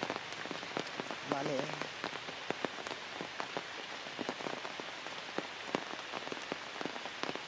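Steady rain falling on foliage, with many sharp taps of single drops close by.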